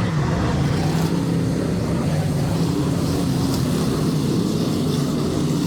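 Dirt-track race car engines running steadily, their pitch rising slightly in the middle.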